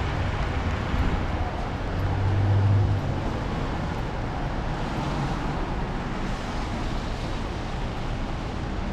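Steady city street traffic noise on a rainy day, with a low engine hum swelling briefly about two to three seconds in as a vehicle passes close by.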